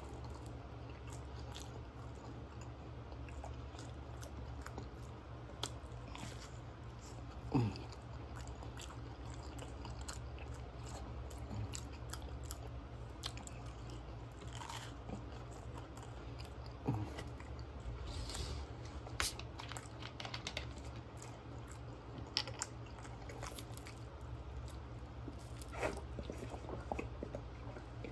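A person biting and chewing a toasted grilled cheese Spam sandwich close to the microphone, with scattered small mouth clicks and a few short louder mouth sounds. A low steady hum runs underneath.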